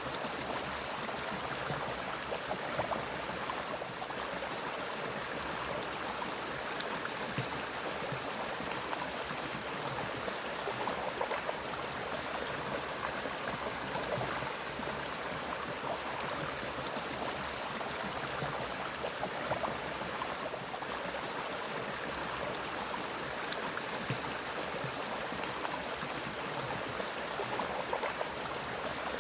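A forest mountain stream flowing steadily, with a constant high-pitched whine held over the rush of water.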